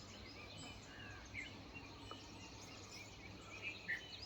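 Small birds chirping and twittering faintly, with many short scattered calls, over a steady low background hum.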